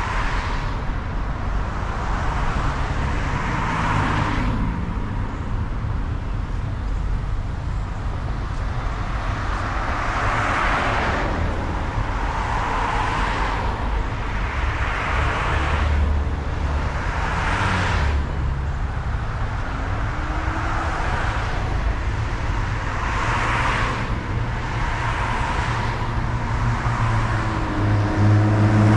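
A car engine running amid road and traffic noise that swells and fades every few seconds; near the end the engine note grows louder.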